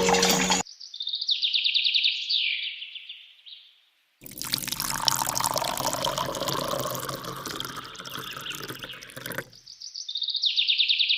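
A bird's rapid trilling song, then about five seconds of running, pouring water, then the trilling song again near the end; each part starts and stops abruptly.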